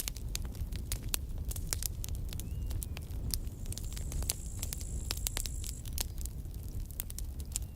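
Wood fire crackling, with many irregular sharp pops over a low steady rumble. A thin high hiss rises about three seconds in and lasts a couple of seconds.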